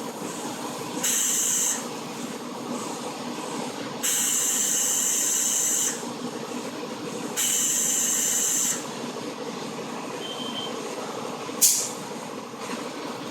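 Car engine running steadily, its oil contaminated with coolant into a milky sludge. Three loud bursts of hissing, about one to two seconds each, sound over it, followed by a single sharp click near the end.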